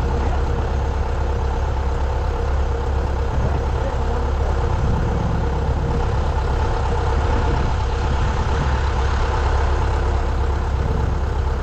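Heavy farm engine running steadily at an even speed, with a deep, constant hum.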